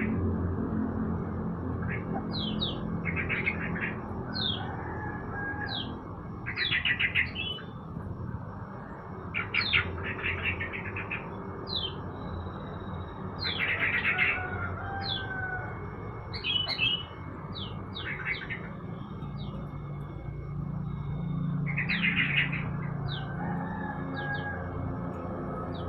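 Caged songbirds calling: bursts of rapid rattling trills every few seconds mixed with short downslurred whistled notes, over a steady low background rumble.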